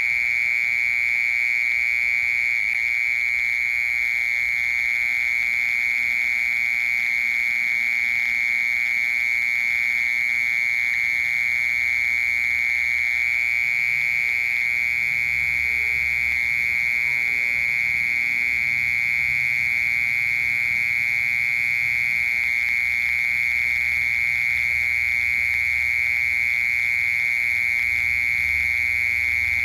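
Crickets trilling: one continuous, steady high-pitched trill with no breaks.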